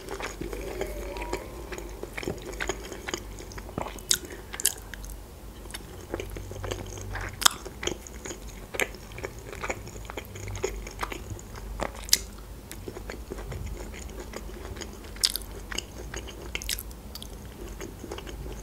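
Close-miked chewing of boiled pelmeni dumplings and black olives: soft, wet mouth sounds and smacks, broken by many short clicks, a few of them sharper and louder.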